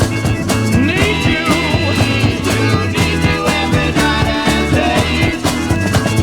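A 1960s garage/psychedelic rock band recording: drums keeping a steady beat under bass and electric instruments.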